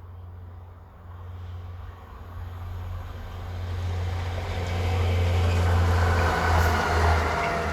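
Railway engineering train approaching and passing: a low engine rumble that grows steadily louder, loudest about five to seven seconds in.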